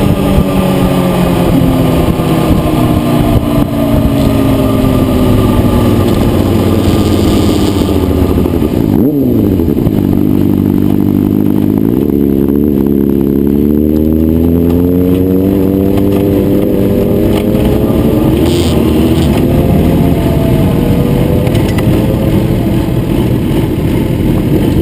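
Motorcycle engine under way on a racetrack. The revs fall steadily for several seconds, give two quick blips of the throttle about nine and twelve seconds in, as in downshifting for a corner, then climb steadily as it accelerates and ease off again near the end.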